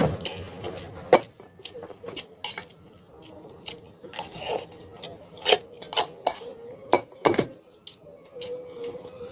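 Utensils clinking and scraping against dishes while eating: a run of irregular sharp clicks, the loudest about a second in and a cluster of them past the middle.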